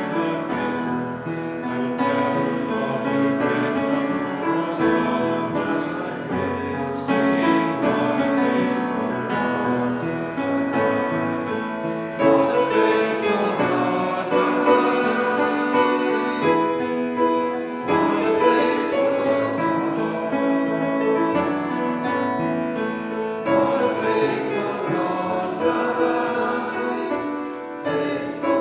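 Congregation singing a hymn together, many voices holding long notes in a slow tune.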